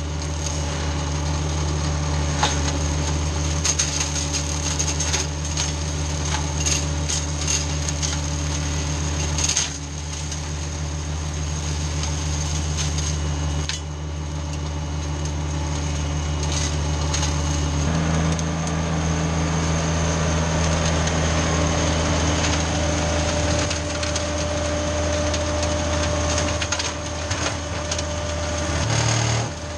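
Kubota BX compact tractor's diesel engine running steadily, its note shifting slightly a few times (about ten, fourteen and eighteen seconds in), with frequent sharp clicks and cracks over it.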